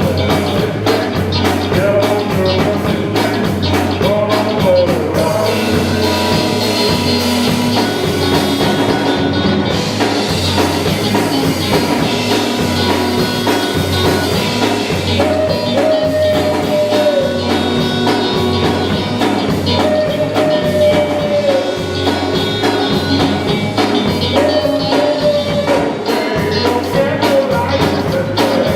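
Live gospel group performing: a band with drums and bass keeping a steady beat under singing, with long held notes that bend in pitch.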